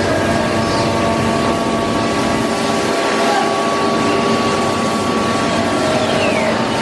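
Five-axis CNC router running, a steady machine noise with several constant whining tones, and a tone sliding downward near the end.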